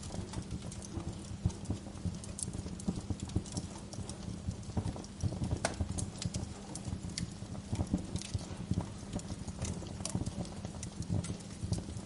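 Wood fire crackling: a dense run of small irregular crackles and sharper pops over a low, steady rumble, with one louder pop about five and a half seconds in.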